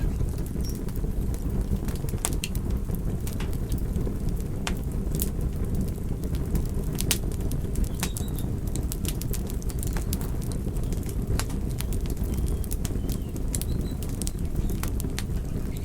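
Fire burning, with a steady low rush of flames under frequent, irregular sharp crackles and pops.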